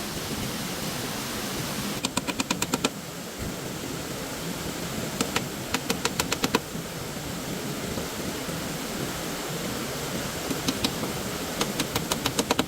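Steady rush of stream water, broken by several short runs of quick, even tapping at about ten taps a second.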